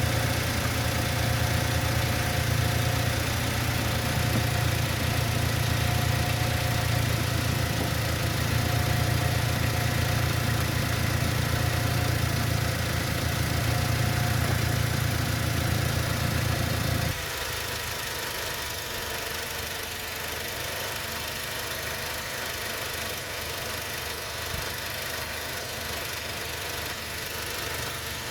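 Car engine idling steadily; about two-thirds of the way in, the low hum drops off suddenly and the engine runs on more quietly.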